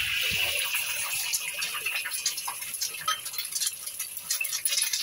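Three eggs frying in hot oil in a wok: a loud sizzle as they go in, easing after about two seconds into steady crackling and spitting.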